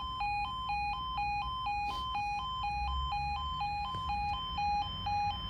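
Level crossing warning alarm sounding as a train approaches: a two-tone alarm that switches steadily between a lower and a higher note, about two cycles a second.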